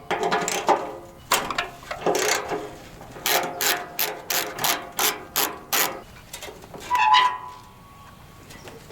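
Metal tools working on metal parts: irregular clicks and clanks, then a steady run of sharp metallic clicks about three a second in the middle, and a single ringing clank about seven seconds in.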